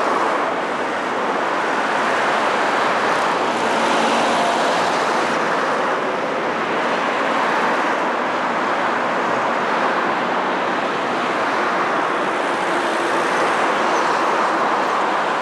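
Steady road traffic noise: a continuous, even rush of passing vehicles.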